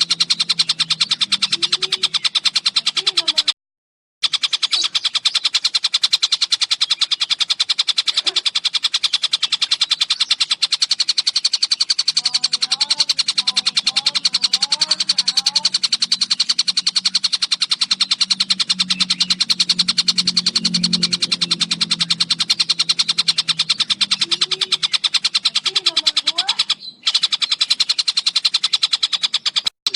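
Recorded song of a tengkek buto: a fast, unbroken stream of high, rapidly repeated notes. It breaks off briefly twice.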